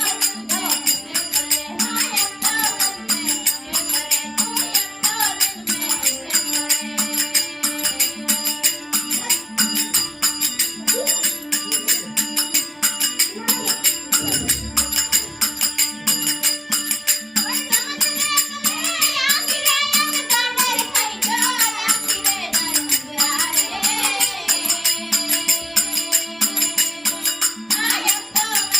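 Devotional bhajan music: a fast, steady beat of jingling percussion over held drone notes, with a singing voice coming in about two-thirds of the way through.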